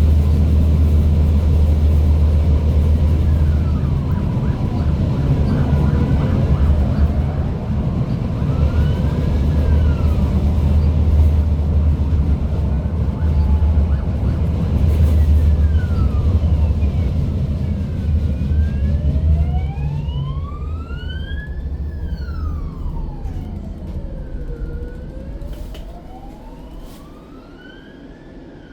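Tram running with a steady low rumble, which dies away about two-thirds of the way through. Over it an emergency vehicle's siren wails, slowly rising and falling in pitch, plainest in the last third.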